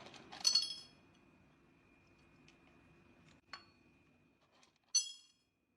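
Three short, high, ringing clinks: about half a second in, about three and a half seconds in, and about five seconds in. A faint steady high hum runs beneath them.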